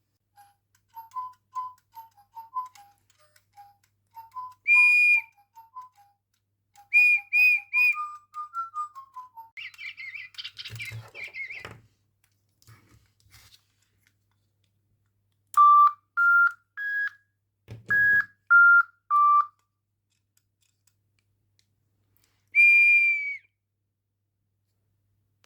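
Electronic interactive toy bird making its sound effects. It starts with a run of short melodic beeps, then gives several loud high whistles, a scratchy chirping stretch about ten seconds in, and a sequence of stepped electronic tones.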